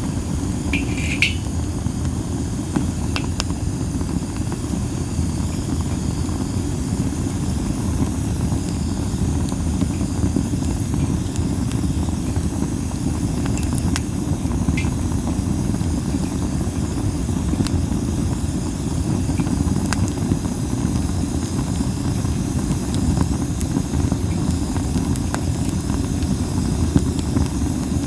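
Masaki (Japanese spindle) wood burning in an open fire: a steady low rumble of wind on the microphone, with a few scattered sharp crackles and short hissing squeals from the burning wood, one near the start and another about halfway through.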